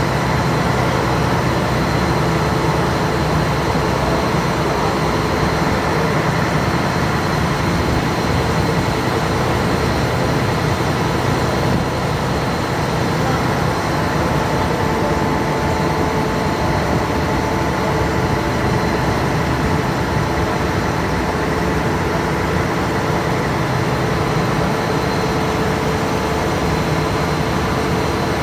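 A passenger ferry's engine running steadily: a loud, constant drone with a few faint steady tones through it.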